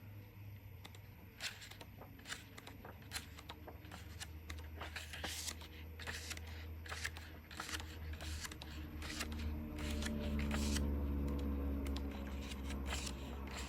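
Pages of a 6x6 patterned paper pad being flicked through one after another, each turn a short crisp paper flip or rustle. A low droning hum swells in the second half.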